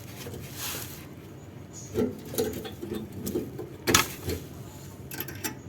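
Clicks and light knocks of hand work on car parts, a cluster of them starting about two seconds in with one sharp click near four seconds, and a few more just before the end.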